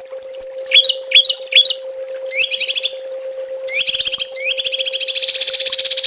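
Small songbird singing in quick bursts: a few short high notes, three down-slurred notes, then rapid trills that run into one long fast trill in the second half. A steady low tone sounds underneath.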